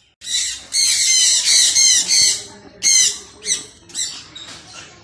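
Birds calling loudly, close by: a fast run of repeated calls for about two seconds, then four or five separate calls about half a second apart that grow fainter.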